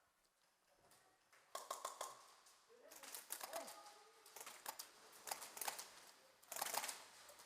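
Airsoft guns firing in about four short bursts of rapid clicks, in a small room.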